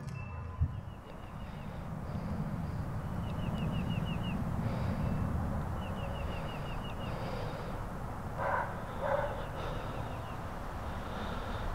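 Suburban outdoor ambience with a steady low background noise. A bird repeats a quick run of about six high chirps three times, and a dog barks twice, about eight and a half seconds in.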